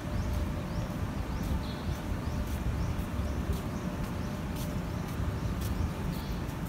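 Small birds chirping repeatedly, short high calls every half second or so, over a steady low rumble of outdoor city background.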